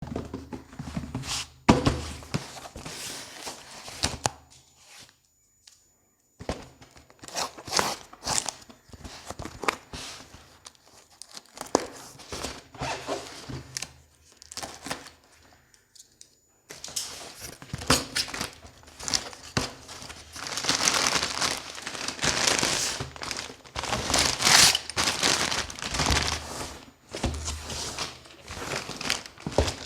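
Packaging crinkling and tearing as a miniature toy kitchen set is unboxed, with light knocks and clicks of the pieces being handled. It comes in irregular bursts, broken by a short pause about five seconds in.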